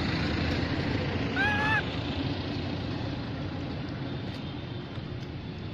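A baby monkey gives one short, arched crying call about a second and a half in, over a steady background rumble.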